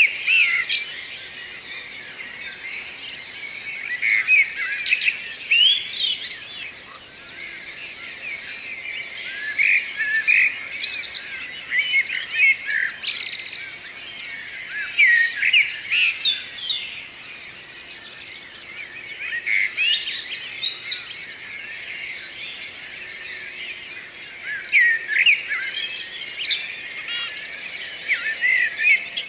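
Morning songbird chorus: birds singing quick, varied whistled phrases that overlap, coming in bouts with short lulls between.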